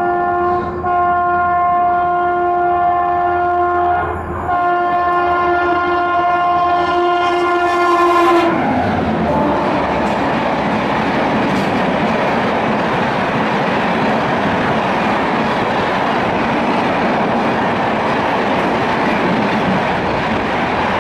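High-speed express train sounding its horn in long blasts, broken twice briefly. About eight seconds in the horn cuts off, and the train rushes past with a loud, steady rushing roar of wheels on rails.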